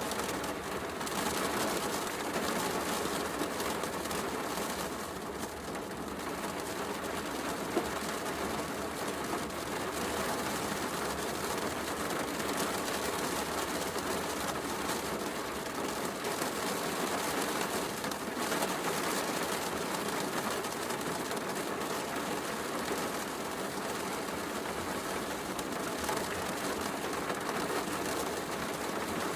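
Steady heavy rain falling, mixed with a wood fire crackling in a fireplace, with one sharper pop about eight seconds in.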